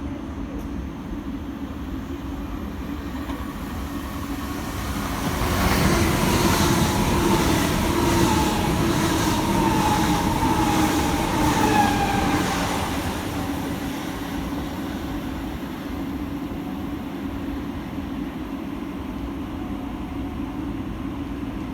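A train passing through the station, louder for several seconds in the middle, with a rapid regular clatter of wheels on the track and a whine that falls in pitch as it goes by. A steady low hum continues underneath.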